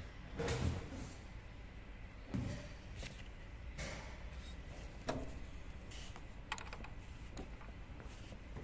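Metal hand tools and engine parts clinking and knocking now and then, about half a dozen short hits spread over several seconds.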